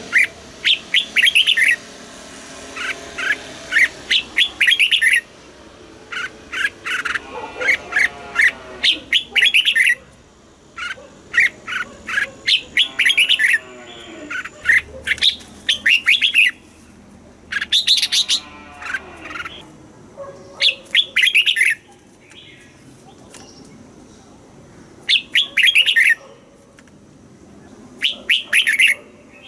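Red-whiskered bulbul singing: short phrases of quick, bright whistled notes repeated over and over, with brief pauses between phrases.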